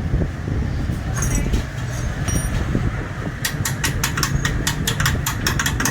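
A motor vehicle engine idling steadily, joined about halfway in by a rapid run of sharp clicks, about six a second.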